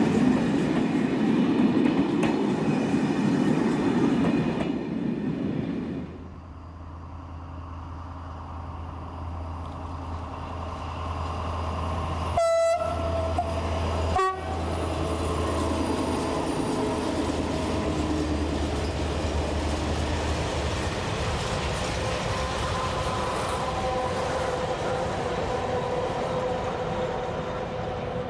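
Real recording of full-size SNCF trains. Passenger coaches roll past loudly for the first few seconds. Then a BB 67400 diesel locomotive's engine hums steadily, it gives two short horn blasts about halfway, and its freight train rolls past with a faint steady whine over the wheel noise.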